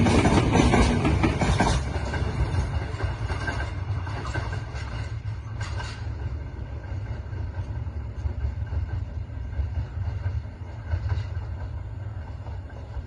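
Passenger train coaches rolling past close by, their wheels clacking on the rails. About two seconds in the sound drops sharply as the tail of the train goes by, leaving a low rumble that slowly fades as the train pulls away.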